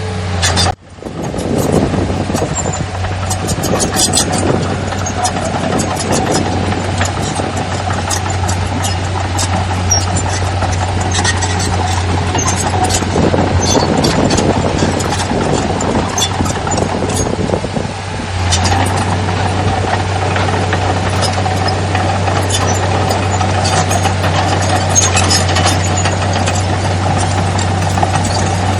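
Diesel engine of heavy earthmoving machinery running steadily, with rattling and clanking over it; the sound breaks off briefly about a second in.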